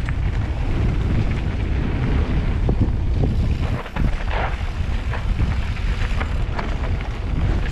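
Wind buffeting the microphone while a mountain bike rides a dirt trail, with a steady low rumble and scattered clicks and knocks from the bike over the ground.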